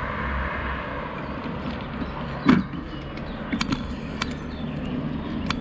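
Bicycle ride noise: wind on the microphone and a steady tyre rumble, with scattered small clicks and a sharper knock about two and a half seconds in.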